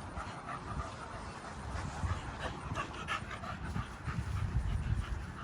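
A dog panting quickly and steadily, short breathy strokes in quick succession.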